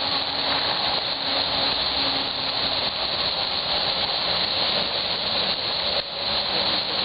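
Steady, even rushing noise with no clear rhythm or pitch, keeping the same level throughout.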